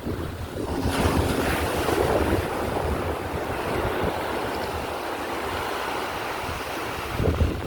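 Surf washing up the beach, swelling about a second in, with wind buffeting the microphone.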